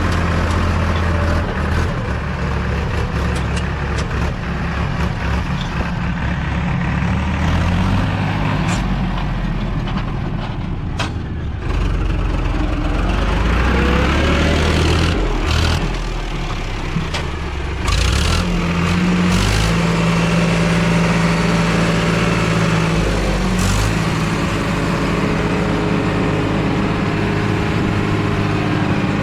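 JCB 3DX backhoe loader's diesel engine running under load, its pitch rising and falling as it is revved up and eased off, with a few short sharp knocks at intervals.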